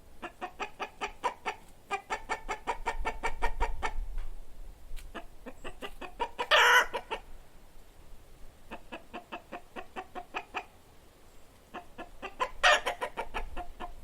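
Chicken cackling: runs of rapid clucks, about eight a second, broken twice by a louder drawn-out squawk, once about halfway through and once near the end.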